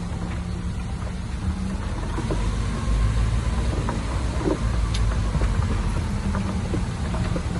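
Heavy construction-machine diesel engine running steadily, growing louder about three seconds in, with a few light clanks.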